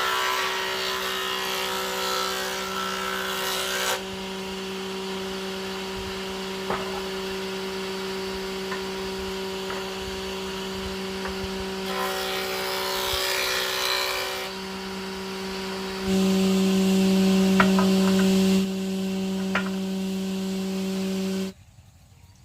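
Electric power tool running at a steady pitch, working wood in two noisy spells, then switching off about a second before the end.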